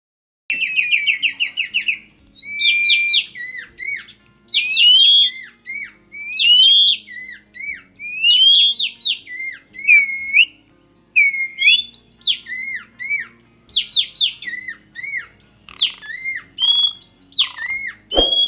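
Oriental magpie-robin and Asian pied starling singing loudly: a dense, fast run of whistled notes, rising and falling slurs and chattering phrases with one short pause in the middle. A sharp knock sounds near the end.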